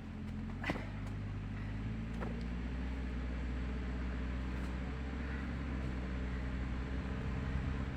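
Bulldozer's diesel engine running steadily at constant speed, a low even drone. A sharp click sounds just under a second in, and a fainter one about two seconds in.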